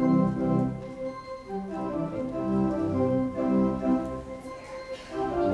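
Church organ starts playing suddenly and at full volume, sustained chords moving step by step under a melody: the closing music of a service.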